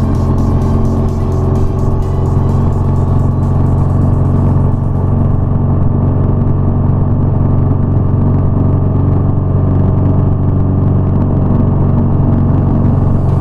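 BMW R nineT's air/oil-cooled boxer-twin engine running at a steady cruise, under electronic background music with a ticking beat that drops away about five seconds in.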